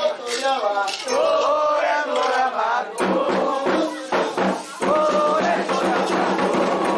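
Candomblé ritual chant sung by a group of voices in call-and-response style, accompanied by drums and hand percussion; the singing grows fuller about three seconds in.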